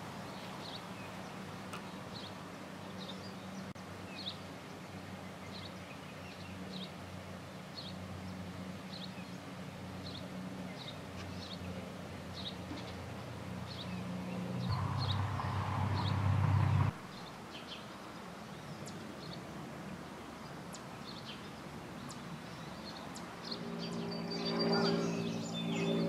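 House wren giving a short, high chip call over and over, about every half second, over a steady low background rumble. Past the middle, a louder rushing noise swells for about two seconds and cuts off suddenly, and a low droning tone comes in near the end.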